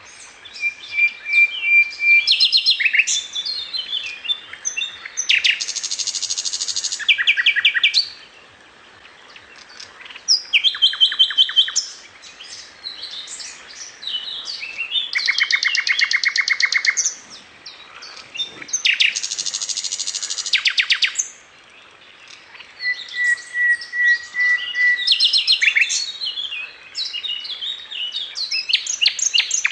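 Songbird singing a varied song: fast rattling trills, sharp chirps and steady held whistles, in phrases a few seconds long with short pauses between them.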